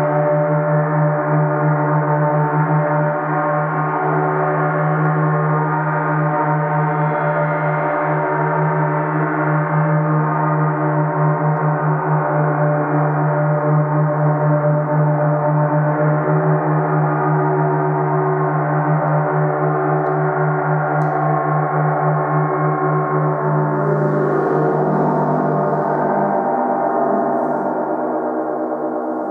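A 30-inch (75 cm) Earth Element symphonic gong sounding continuously as a dense wash of many overtones over a strong low hum. The sound is held at an even level with a slight wavering, and its upper overtones shift a little near the end.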